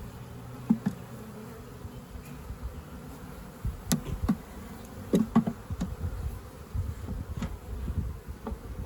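Honey bees buzzing in a steady hum around an opened swarm trap and hive, with a handful of sharp knocks, clustered mostly around the middle.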